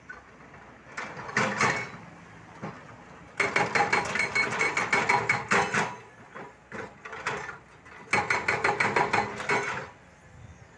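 Excavator breaker hammer chiselling at the ground in short runs of rapid blows, about ten a second with a metallic ring. There are four runs, about 1 s, 3.5 s, 6.5 s and 8 s in; the second and last are the longest and loudest.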